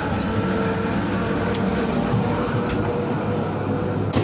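Steady running noise inside a moving regional passenger train carriage, a dense rumble with a low hum, a few light clicks and one sharp click near the end.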